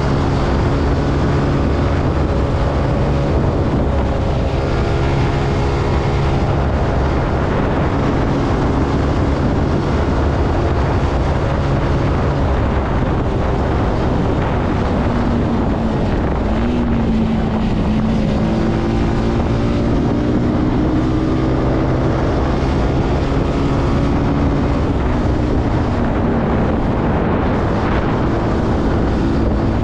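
Zontes C125 125cc motorcycle engine running on the move, its pitch rising and falling with the throttle, dipping about halfway and climbing again soon after, with wind noise on the microphone.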